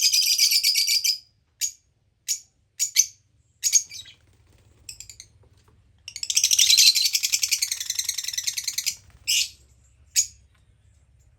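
Small pet parrot calling: a fast, rapidly pulsed high chatter at the start, a string of short sharp chirps, then a second long chattering run about six seconds in, ending with two more single chirps.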